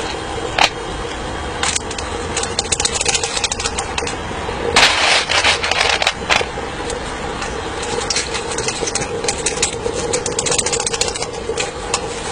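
Electric fan running steadily to draw the charcoal fire in a model steam locomotive's firebox, with scattered clicks and knocks and a louder burst of noise about five seconds in.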